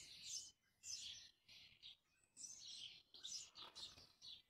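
Faint birdsong: short, high chirping phrases repeating with brief gaps between them.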